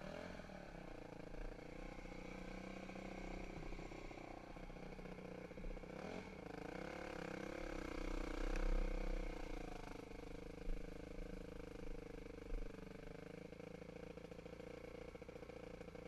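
Dirt bike engine running as the bike is ridden, its pitch rising and falling with the throttle, loudest a little past the middle. Wind buffets the microphone with a low rumble, and there are a few short knocks.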